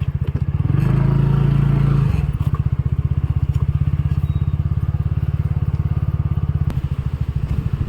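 Motorcycle engine running with a steady low pulsing note, revving up briefly about a second in before settling back.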